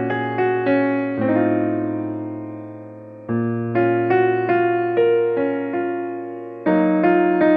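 Slow, calm piano music: gentle chords and single notes struck over sustained low bass notes, each dying away before the next.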